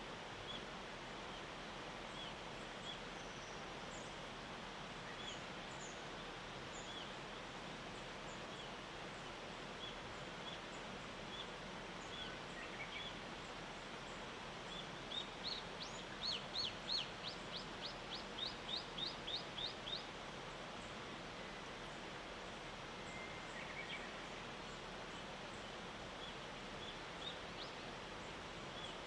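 Small songbirds calling on a misty mountainside over a steady background hiss: short high chirps come every second or two, and about halfway through one bird gives a quick series of about a dozen falling notes lasting some five seconds.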